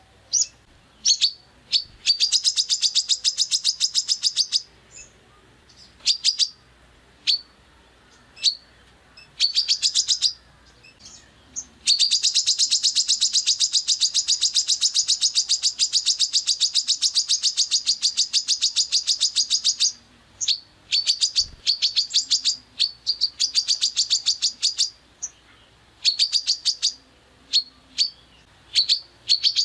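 Songbird calling in rapid-fire 'tembakan' bursts: fast, evenly spaced trains of sharp high chips. There are short bursts and single notes, then a long unbroken run through the middle lasting about eight seconds.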